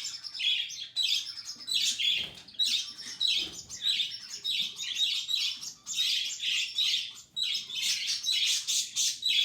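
Baby budgerigar food-begging calls: rapid, harsh, repeated rasping squawks in runs with short pauses between them.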